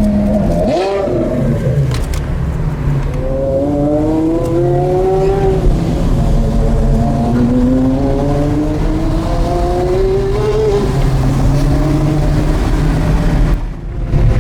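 Porsche Carrera GT's naturally aspirated V10 with an FVD exhaust, accelerating in two long pulls. The engine note rises steadily through each pull, then drops back.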